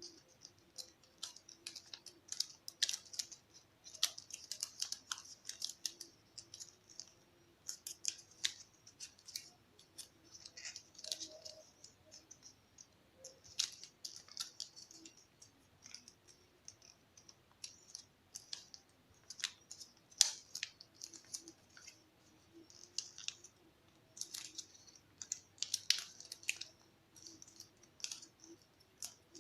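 Origami paper being folded and creased by hand: irregular short, sharp rustles and clicks of the paper.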